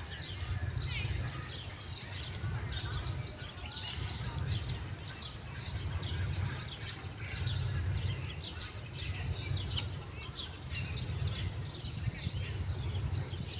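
Many short, quick bird chirps running on without a break, over a low rumble.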